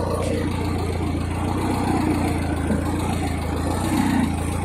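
Ford 8N tractor's four-cylinder flathead petrol engine running steadily at a low, even speed.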